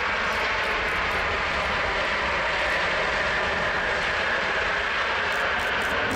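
Jet engines of a Boeing 777-200ER airliner as it lands: a steady loud roar with a high whine that slowly falls in pitch.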